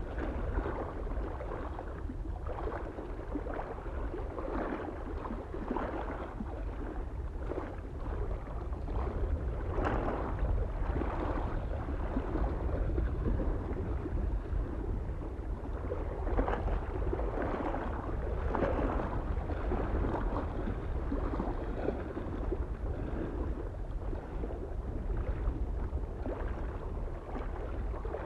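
Small lake waves lapping and splashing against the shore in an irregular, unbroken run, over a steady low rumble of wind on the microphone.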